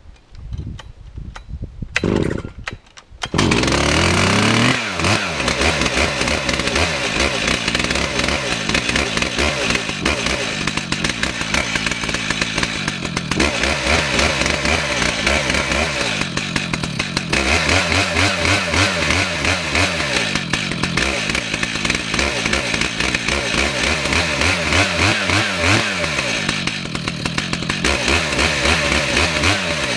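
Two-stroke chainsaw starting about three seconds in after a few brief knocks, revving up, then running steadily under load as it rips lengthwise through a red oak log in a chainsaw mill.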